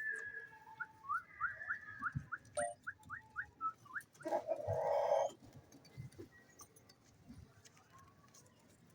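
Parrot whistling: a held note, then a quick run of about ten short whistled notes, followed a little over four seconds in by a harsh squawk lasting about a second, the loudest sound.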